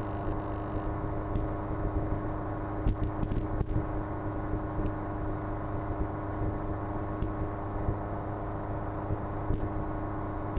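Steady drone of a Schweizer 300C piston helicopter's engine and rotors in flight, even and unchanging, with a few faint clicks about three seconds in.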